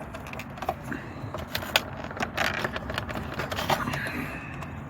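Small sharp plastic clicks and scrapes from handling a Mercedes W203 instrument cluster as its retaining tabs are pressed in and worked loose, coming in a quick cluster about two seconds in.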